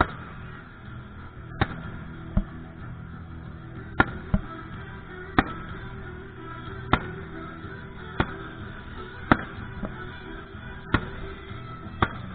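Fireworks going off in a string of sharp bangs, about a dozen, roughly one a second, over steady background music.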